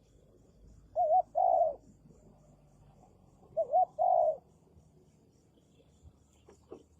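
Spotted dove cooing: two calls about two and a half seconds apart, each a quick wavering double note followed by a longer coo.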